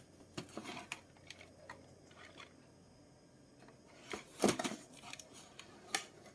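Small clicks and scrapes of hard plastic model-kit parts and runners being handled and cut, with a louder scrape about four seconds in and a sharp click near the end.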